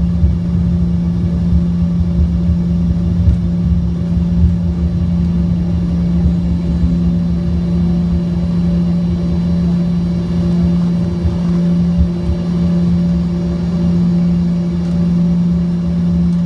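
Passenger airliner's engines and airframe droning steadily after touchdown, with a strong constant hum over a low rumble.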